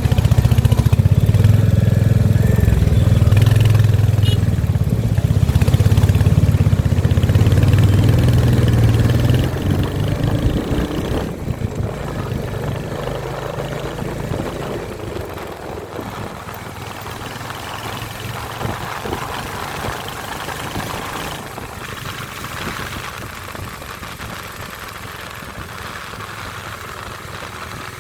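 Royal Enfield Hunter 350's single-cylinder engine running with a loud, low exhaust rumble. About ten seconds in it drops off and carries on more quietly.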